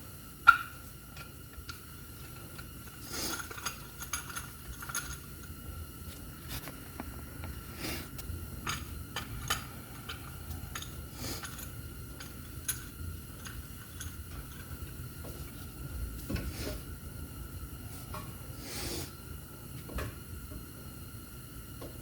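Scattered metallic clinks, knocks and scrapes of a small clamp being worked against a brake caliper to push its two pistons back in, with one sharp click about half a second in. A faint steady whine and low hum run underneath.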